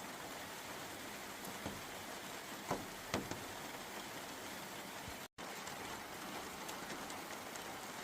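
Steady heavy rain falling, an even hiss with a few louder drops striking near the middle. The sound drops out for an instant a little after five seconds.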